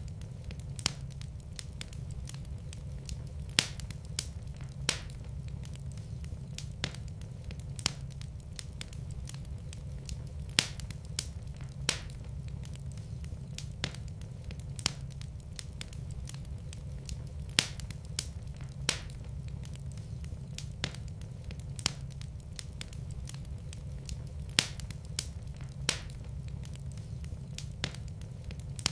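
Wood fire in a fireplace crackling, with sharp pops every half second to second over a steady low rumble of the flames.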